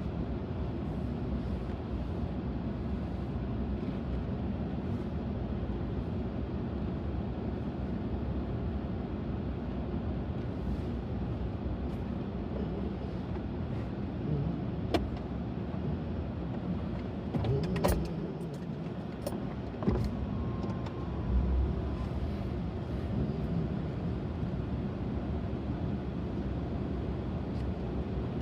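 Steady low rumble of a Ram Bighorn pickup heard from inside the cab as it runs. A few sharp clicks and knocks come in the middle, and a short steady tone sounds about two-thirds of the way through.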